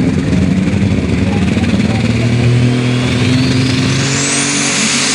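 Super stock pulling tractor's turbocharged alcohol engine running loud at high revs. A high turbo whine climbs steeply in pitch about three seconds in.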